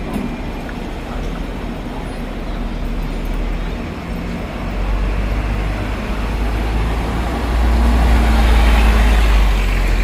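Vehicle traffic rumble: a steady mix of engine and road noise whose deep rumble grows louder over the second half, heaviest near the end.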